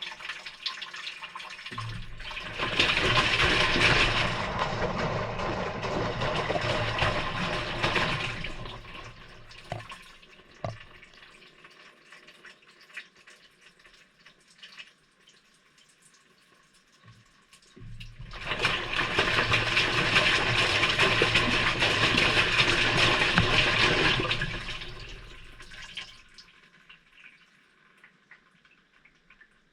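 Maytag front-loading washer on a delicate cycle, heard from inside the drum: the drum turns twice, each time for about six seconds, with the motor humming under water sloshing and wet laundry tumbling. A quiet pause of about nine seconds lies between the two turns, with only faint drips and ticks.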